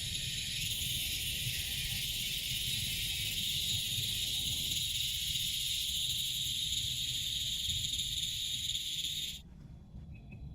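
Steady high-pitched chorus of insects that stops abruptly about nine seconds in, over a low rumble.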